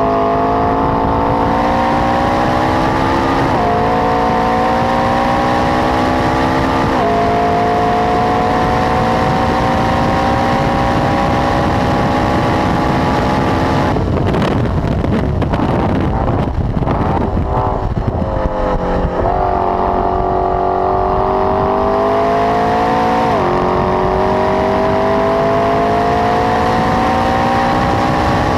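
McLaren 12C's twin-turbo V8 with a Milltek exhaust pulled at full throttle, its pitch climbing through each gear with quick drops at the upshifts, about 3.5, 7, 23 and 28 seconds in. Midway, for about five seconds after the 200 m board, the steady note breaks into a crackling burble as the car brakes and downshifts, then climbs again.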